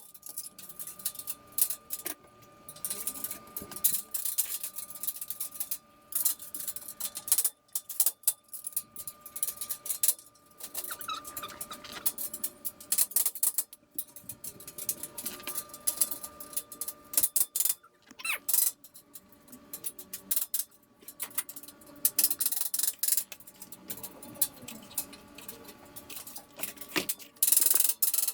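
Steel shelf parts being handled and fitted together: irregular metal clicks, knocks and scrapes with short pauses between them.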